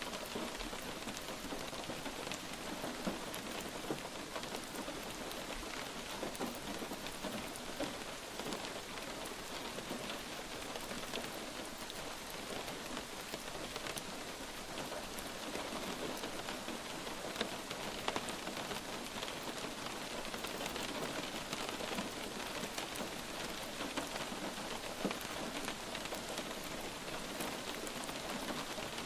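Light rain falling steadily, a continuous hiss with many separate drops pattering on a surface.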